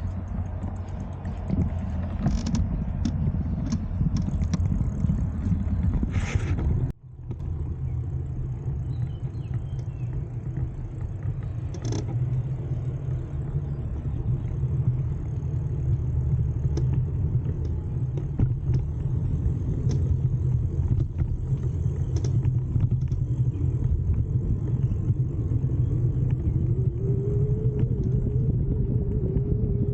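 Steady low rumble of riding a bicycle, wind buffeting the microphone over the sound of tyres rolling on the road, with a brief dropout about seven seconds in and scattered light clicks.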